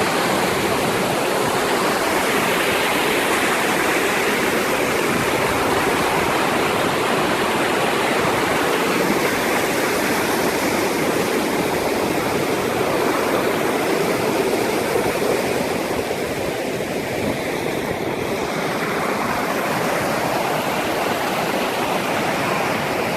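Steady, loud rush of water, an even roar with no breaks.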